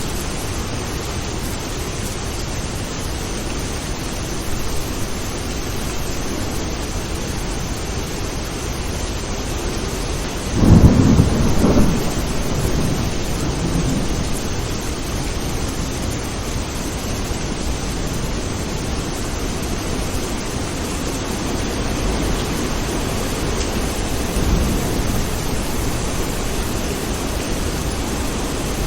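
Steady rain falling, with a loud crack and rumble of thunder about ten seconds in that rolls on for a few seconds, and fainter rumbles later.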